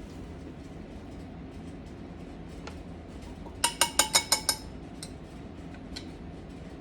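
Kitchen utensil clinking against a dish, a quick run of about seven ringing taps lasting about a second, midway through.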